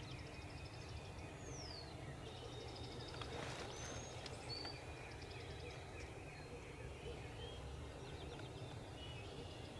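Songbirds chirping, whistling and trilling over a steady low outdoor rumble, with one short rasping burst about three and a half seconds in.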